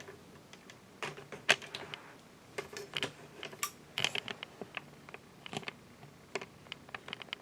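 Scattered light clicks and knocks as the Emerson Designer ceiling fan is switched on by its snap-switch pull chain and handled, with a faint steady motor hum coming in about a second in.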